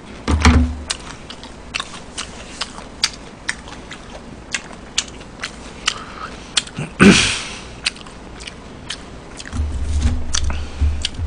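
A person chewing crispy fried chicken close to the microphone: many small sharp crunches and mouth clicks, with one louder burst of noise about seven seconds in and low thumps near the end.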